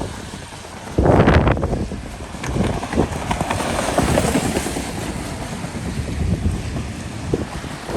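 Street noise from passing traffic, with wind buffeting the microphone and a louder rush about a second in.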